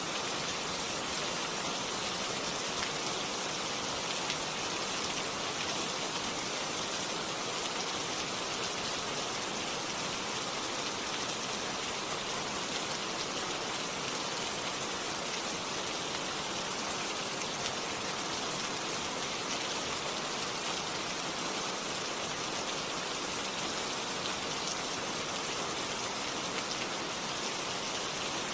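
Steady rain falling, an even hiss of many drops with no changes or thunder.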